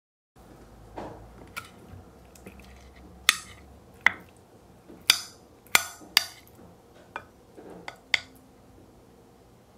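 A metal spoon cutting through firm gelatin jelly and clinking against a ceramic plate: a run of about eight sharp clinks in the middle of the stretch, with softer scraping sounds between.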